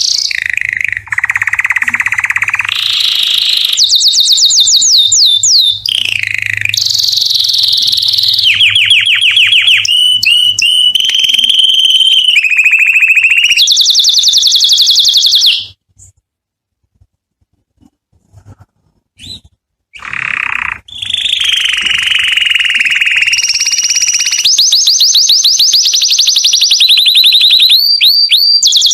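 Domestic canary singing a song of rapid trills and rolls, each phrase a fast run of repeated notes at its own pitch, switching pitch every second or two. The song breaks off for about four seconds midway, then resumes with more trills.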